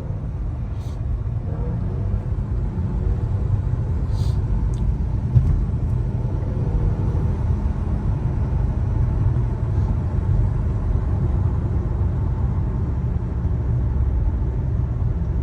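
Car driving at a steady pace, heard from inside the cabin: a steady low rumble from the engine and exhaust. Deer remains are packed under the exhaust after the car ran over a dead deer, and the driver says it sounds like something is broken.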